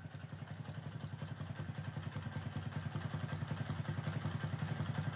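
Honda Varadero's V-twin engine running at low speed with an even low pulse, growing gradually louder as the bike rolls slowly in.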